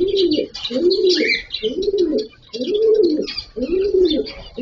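A dove or pigeon cooing: a steady run of low notes, each rising and falling, about seven in under five seconds. Small birds chirp high above it, likely cockatiels.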